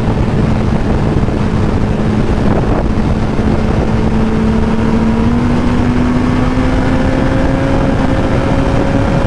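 Yamaha R1's inline-four engine pulling steadily at speed, its note climbing slowly as the bike gains speed, with a small step up about five seconds in. A constant rushing noise runs underneath.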